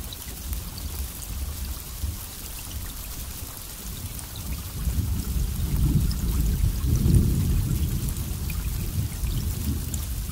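Steady rain falling, with scattered drop ticks over an even hiss, and a low roll of thunder that builds about halfway through and slowly fades toward the end.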